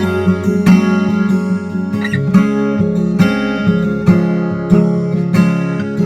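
Acoustic guitar strummed in a steady rhythm, with chords ringing between the strokes and no singing.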